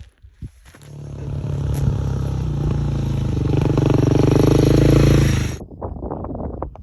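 Motorcycle engine running steadily and growing louder over several seconds, then cut off abruptly about five and a half seconds in; a run of light clicks and crunches follows.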